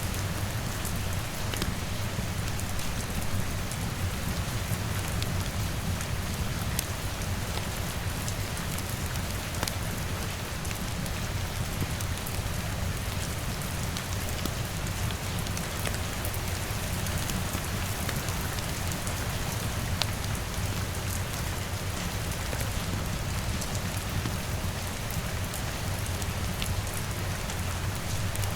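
Steady rain, with a low rumble underneath and many small sharp ticks scattered throughout.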